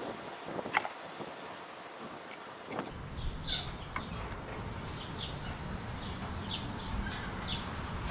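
Short, high chirps of small birds repeating every half second or so from about three seconds in, over a low rumble of wind on the microphone. A single sharp click about a second in.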